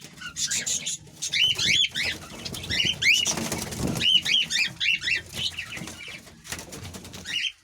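A flock of budgerigars chattering with many quick rising-and-falling chirps, and a brief flurry of wing flapping about three and a half seconds in.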